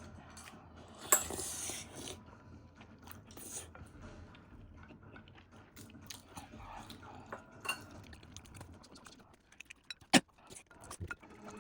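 Someone eating: chewing and crunching with small clicks of cutlery and dishes, a short noisy burst about a second in and a sharp click near the end.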